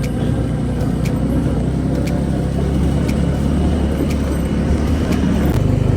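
A vehicle engine running while travelling over a rough off-road track, a steady low drone with scattered knocks; the engine note changes about five and a half seconds in.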